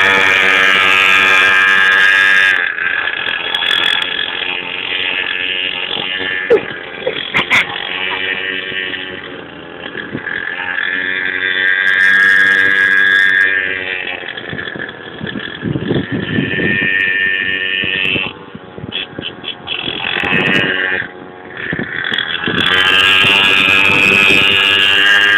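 Mini motorcycle engine running hard as the bike circles, growing loud as it passes close three times (at the start, about halfway, and near the end) and fading as it moves away in between.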